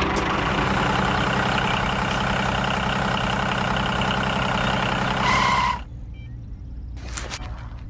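A heavy engine running steadily, like a truck or diesel machine, then cutting off suddenly about six seconds in. Two short hissing bursts follow over a low hum.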